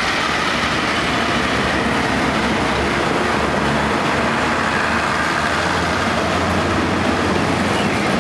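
Passenger train coaches rolling past a station platform as the train pulls out, giving a steady noise of wheels on the rails.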